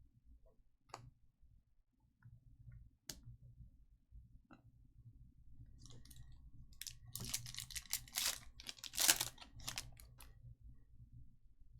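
Crinkling and tearing of a trading-card pack's foil wrapper as it is opened, after a few light clicks of cards being handled; the crinkling starts about two-thirds of the way in and is loudest near the end.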